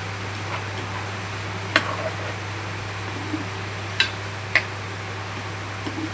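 A stirring utensil clinking and scraping against a cooking pan as chilli chicken with potatoes is mixed, with three sharp knocks, about two seconds in and twice around four seconds. A steady low hum runs underneath.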